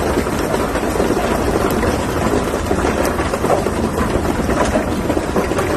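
Hailstorm: hailstones pelting down in a dense, steady clatter of small impacts, over a heavy rumble of wind buffeting the microphone.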